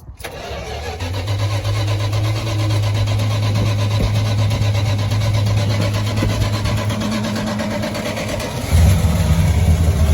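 Cold start of a first-generation Dodge Ram's cammed 318 V8: it catches at once and settles into a steady idle. It runs markedly louder near the end.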